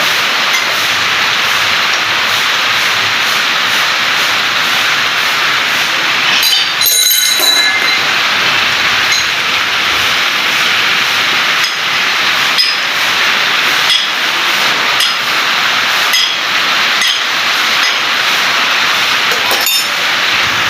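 Steady hissing grind of a 2.5 kVA generator engine's crankshaft being polished, with a brief cluster of metallic clinks about a third of the way in and a few light ticks later.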